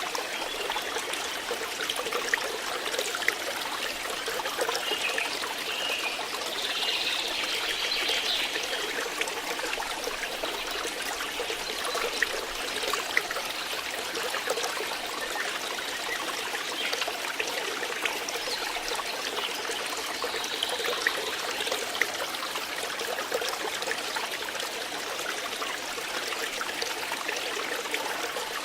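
Water flowing and trickling steadily, with many small splashes and drips.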